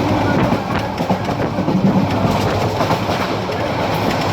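Parabat Express passenger train running on the line: a steady rumble with the wheels clattering over the rail joints.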